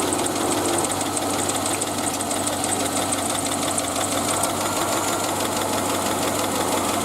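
Chevy Avalanche V8 engine idling steadily, with a fast, even ticking over it that fades out about halfway through.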